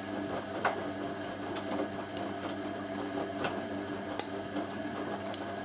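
Hoover A3060 washing machine tumbling its drum in the wash: the motor runs with a steady hum, with a few sharp clicks scattered through.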